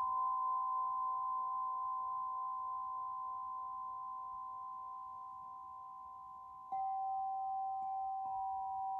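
Two struck sound-healing instruments ringing together in two steady, pure tones that slowly fade. The lower one is struck again about two-thirds of the way in, and there is a lighter strike near the end.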